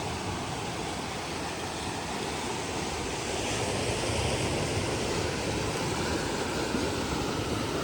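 Sea waves washing against a rocky shore: a steady rush of surf that swells louder about halfway through.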